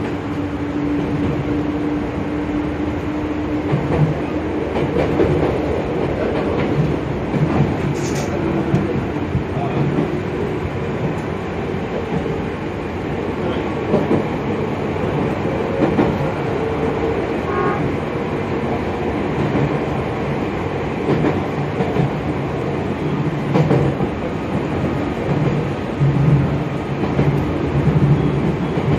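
Electric train running along the track, heard from inside the front car: a steady rumble of wheels on rail with an irregular clickety-clack of thumps over the rail joints. A steady hum at the start fades out after about three seconds.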